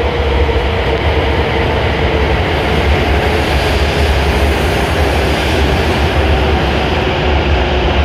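W7 series Shinkansen train running into the platform as it slows to a stop: a steady rumble and rush of passing cars, with a whine that slowly falls in pitch.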